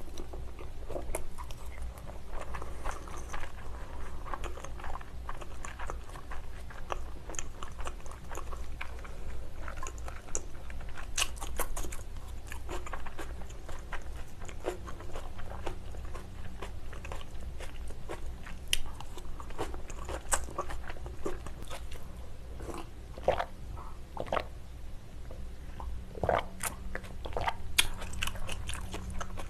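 Close-miked chewing and wet mouth sounds of a person eating raw salmon sashimi, with crisp crunching of green salad vegetables in the second half.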